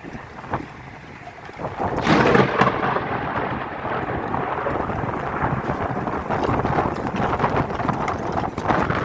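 Heavy rain pouring in a storm, with wind buffeting the microphone. The noise swells sharply about two seconds in and stays loud and steady after that.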